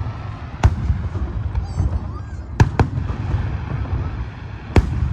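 Aerial fireworks going off in four sharp bangs: one, then a quick pair about two seconds later, then one more near the end. A steady low rumble runs underneath.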